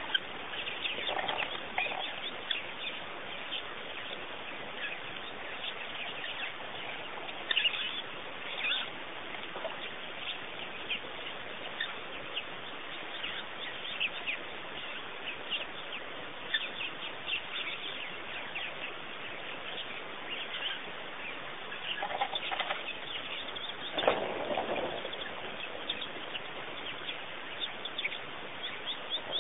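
Many small birds chirping and twittering without a break, with a few lower calls among them, the loudest one late on.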